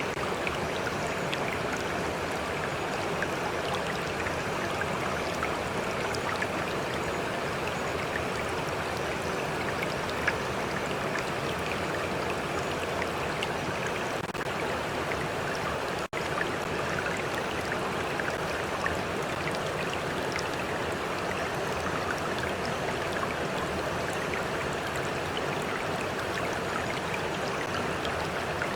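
Stream water flowing and lapping, a steady even rush with small scattered splashes, broken by a split-second gap about halfway through.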